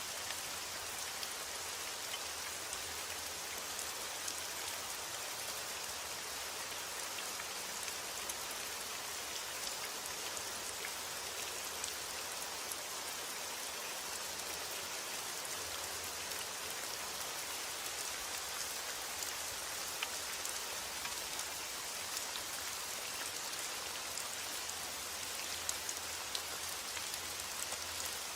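Steady rain falling, a continuous hiss with many small drop ticks and no letup.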